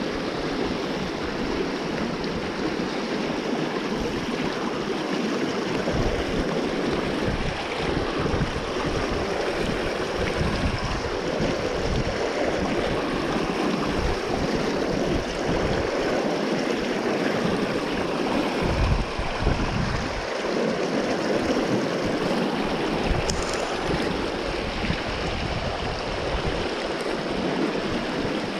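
Steady rush of a flowing river, with gusts of wind buffeting the microphone now and then.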